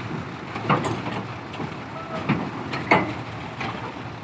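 Heavy diesel engine running steadily, with a few loud, sharp clanks spaced about a second apart. This fits the Nissan D308-S piling machine as it is driven down off a lorry.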